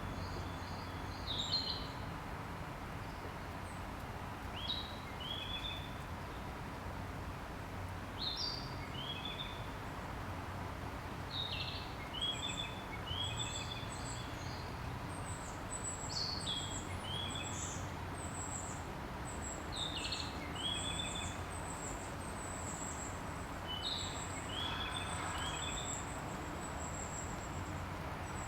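Wild birds calling over a steady background hiss. A short phrase of two or three quick whistled notes repeats about every four seconds, and from about halfway on, many thin, very high-pitched notes join in.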